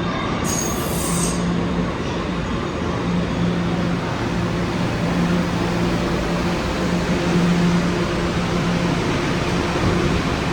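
Kawasaki R211A subway car running between stations: steady rolling rumble with a low hum that comes and goes, and a brief high-pitched squeal about half a second in.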